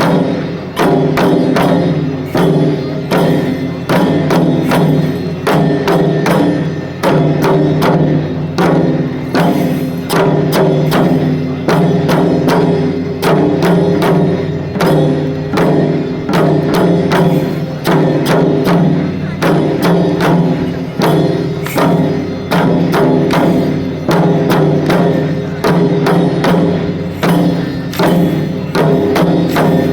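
Shishimai lion-dance taiko drumming in a fast, steady rhythm, with sharp wooden strokes and a ringing drum body. The beats fall in phrases that repeat about once a second.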